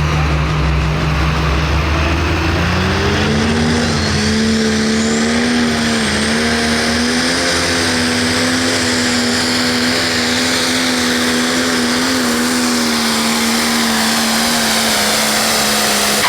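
Pro stock pulling tractor's turbocharged diesel engine under full load on a pull: it climbs in pitch about three seconds in, then holds high, steady revs with a high whine above it, and drops off sharply at the very end.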